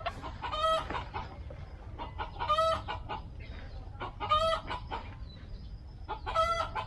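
A bird calling four times, about two seconds apart, each a short call with several ringing tones, over a steady low hum.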